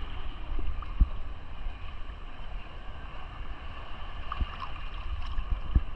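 Sea water sloshing around a swimmer, with wind rumbling on the microphone and a few brief low thumps.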